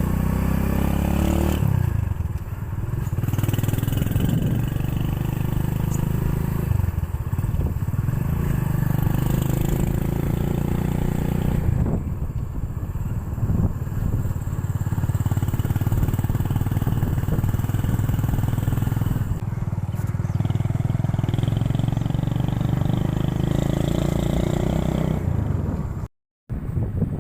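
Motorcycle running along at speed with a steady low engine rumble that eases off briefly four times, as the throttle is let off. The sound drops out for a moment near the end.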